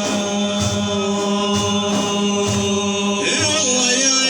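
Male voice chanting a long held note of an Iraqi religious lament, over a steady drone and a regular low beat about once a second. The pitch shifts about three seconds in.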